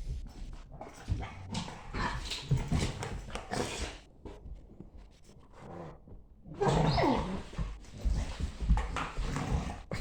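A German Shepherd and a Staffordshire bull terrier play fighting, making odd play noises with panting and whines in irregular bursts. After a short lull, a louder burst about seven seconds in holds a cry that falls in pitch.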